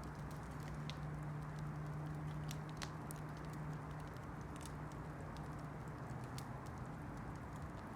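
Campfire burning: a steady low rush with scattered sharp crackles and pops from the wood, and a faint low hum underneath.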